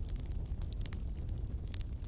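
Fire burning in a fireplace: a steady low rumble with scattered small crackles and pops, several in quick succession near the end.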